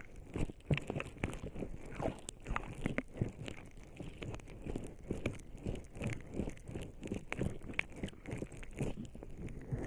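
Bare skin slick with lubricating jelly rubbing and pressing against the microphone, heard close up as an irregular run of wet crackles and rustles.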